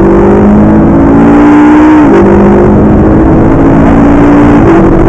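McLaren MP4-12C's 3.8-litre twin-turbo V8 under hard acceleration. The engine note climbs, drops at an upshift about two seconds in, climbs again, then jumps up in pitch at another gear change near the end.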